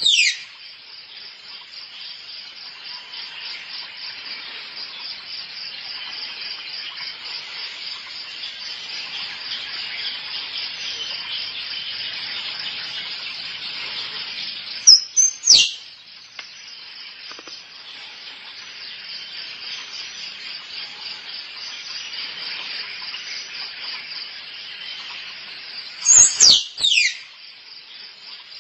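Squirrel mating calls: short groups of two or three loud, sharp, high calls that fall steeply in pitch, once at the start, again about halfway through and again near the end. Under them runs a steady, fast-pulsing insect chorus.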